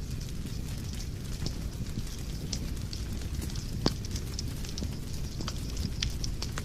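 Wood fire crackling in a fireplace: a steady low rumble of flames with scattered sharp pops and snaps, one louder pop about four seconds in.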